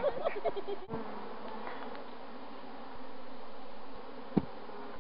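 Swarm of honeybees buzzing steadily, many bees in the air around the disturbed wild colony. A single sharp knock sounds near the end.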